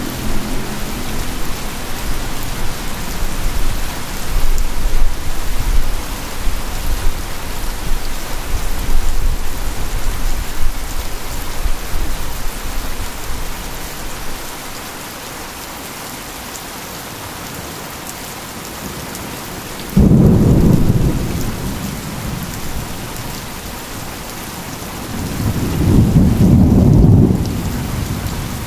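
Heavy rain falling steadily, with thunder. A low rumble runs through the first half, a sudden loud clap comes about two-thirds of the way in and fades, and another rumble swells and dies away near the end.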